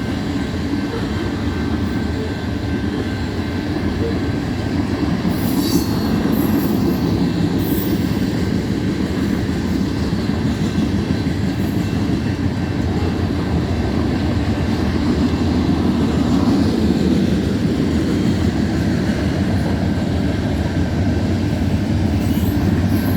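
Covered hopper cars of a BNSF unit grain train rolling past with a steady, heavy rumble of steel wheels on rail. Brief high wheel squeals come about five to eight seconds in and again near the end.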